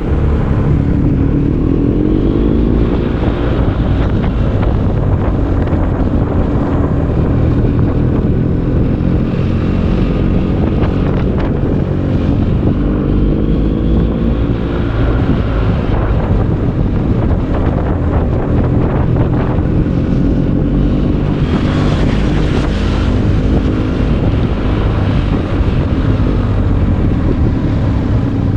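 BMW R 1250 GS boxer-twin engine through an Akrapovic exhaust under way, its note rising and falling as the bike accelerates and changes speed. Wind rushes over the microphone, strongest near the end.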